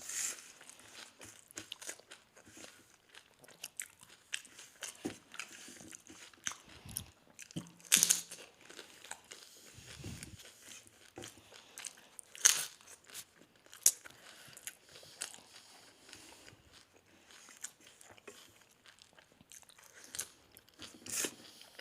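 Doi fuchka being bitten and chewed: crisp, hollow puris filled with yogurt crunching and squishing in the mouth, with irregular soft crackles and a few louder sharp crunches, the loudest about eight and twelve seconds in.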